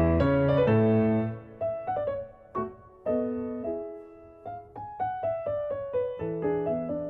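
Background piano music: full chords at first, thinning to single notes that ring and fade, with a steady low bass pattern returning near the end.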